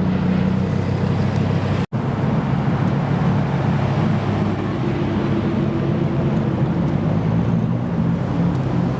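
A car engine running steadily at idle, a low, even rumble. The sound cuts out for an instant about two seconds in, then the same steady running carries on.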